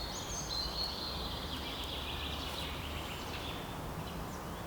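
Small birds singing high, thin warbling phrases, over a steady low outdoor background rumble.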